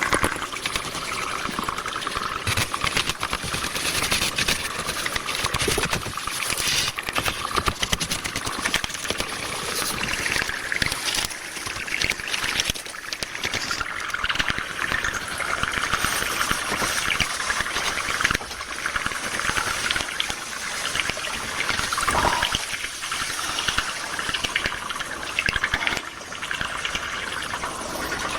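Running water trickling and splashing, a steady hiss dense with small clicks and splashes.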